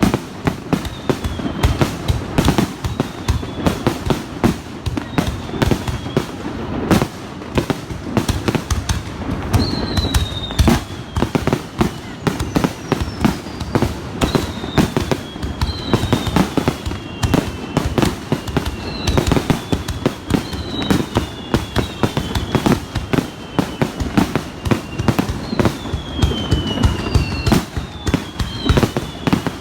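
Fireworks finale heard close to the launch platform: a continuous rapid barrage of launches and bursts. From about ten seconds in, falling whistles overlap the bangs.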